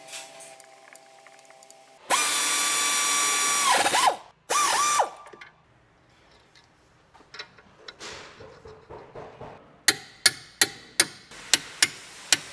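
A power tool whirring in a loud steady whine for about two seconds, winding down as it stops, then a shorter burst, as bolts on a newly fitted front wheel hub assembly are run in. Near the end comes a run of sharp metallic taps, about three a second.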